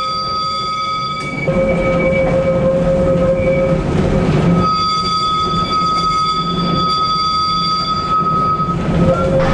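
Vintage electric tram running along street track: a low rumble under several steady high-pitched tones. It grows louder about one and a half seconds in.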